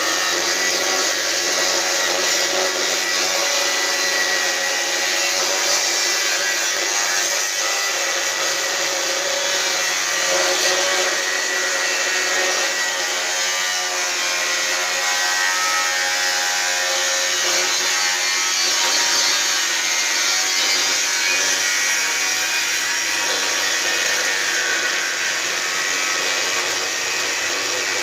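Angle grinder with a cutting disc cutting through steel plate, running steadily under load: a continuous motor whine over the noise of the disc grinding through the metal.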